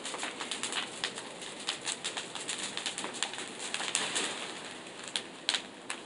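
Large bonfire of branches crackling, irregular sharp pops over a steady hiss of flames, with a few louder pops near the end.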